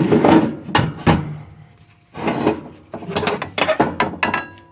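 Irregular knocks, scrapes and clatter as soot-crusted parts and debris are handled and moved about in a wood-burning fireplace being cleaned. The clatter comes in a burst at first and grows busier from about halfway.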